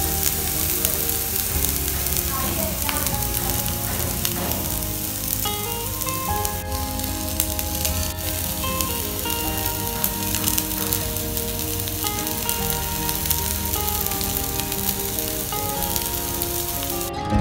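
Spice-coated strips of bitter gourd (karela) sizzling steadily as they fry in oil in a pan.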